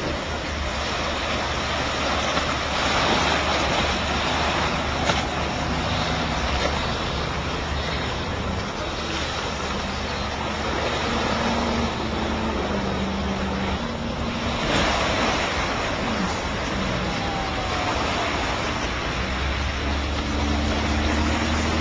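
A vehicle driving through floodwater: a steady rush of splashing water over low engine noise.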